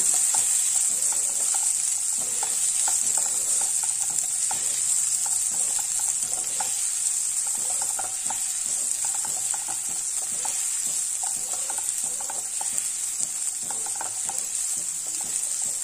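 Apple pieces sizzling in hot ghee in a nonstick pan, sautéed until their sticky juice cooks off: a steady frying hiss with light scraping and tapping of a silicone spatula stirring them.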